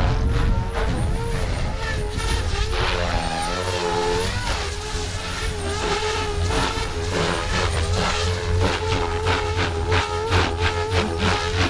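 OMPHOBBY M4 electric RC helicopter flying 3D at about 2700 RPM head speed: a steady whine from motor and rotor that wavers and dips in pitch, most around four seconds in, with a choppier pulsing in the second half. Strong wind rumbles on the microphone underneath.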